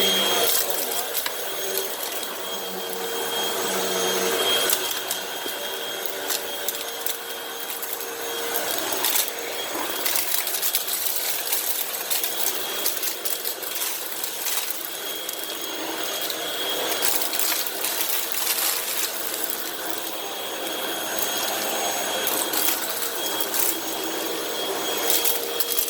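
Hoover WindTunnel High Capacity Pet upright vacuum running steadily while picking up a heavy mess of dirt, sand, paper shreddings and leaves, with repeated clicks and rattles of debris going through it.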